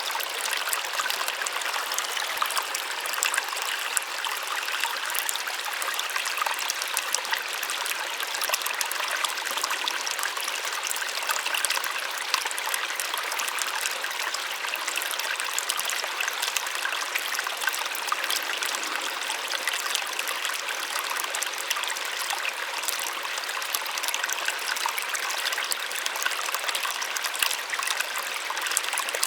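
Small waterfall splashing and trickling steadily, a soft, even rush of falling water with no deep rumble.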